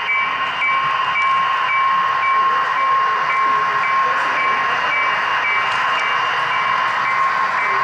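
HO scale model of a GE diesel locomotive running, its DCC sound decoder playing a steady diesel engine sound through the model's small speaker. A short, high, even tick repeats about twice a second over a steady tone and hiss.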